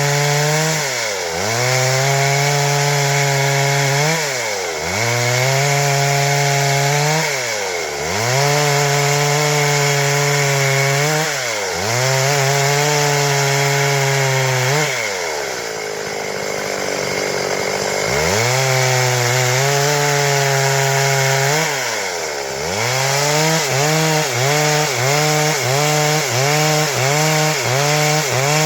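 Stihl MS 382 two-stroke chainsaw running near full throttle while cutting wood, its engine speed dipping briefly and recovering every few seconds. It eases off for a couple of seconds about halfway through. Near the end the pitch wobbles about twice a second.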